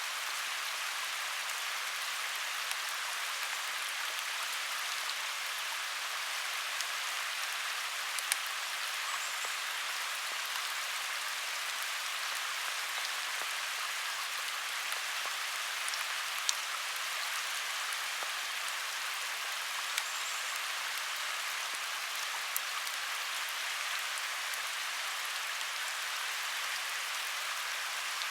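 Steady rain falling, an even hiss, with a few louder single drops ticking now and then.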